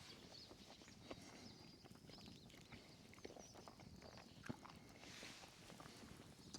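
Near silence, with a few faint scattered clicks and ticks; the clearest comes about four and a half seconds in.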